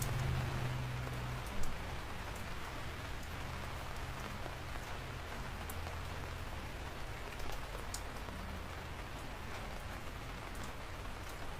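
Steady rain falling and pattering on a surface, with scattered individual drops ticking through it. A low rumble fades out in the first second or so, and a single brief knock comes at about a second and a half in.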